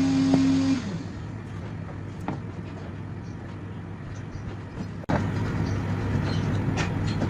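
An electric motor runs with a steady whine and stops under a second in, followed by light tapping and handling noises. A louder steady machine hum starts suddenly about five seconds in, with clicks over it.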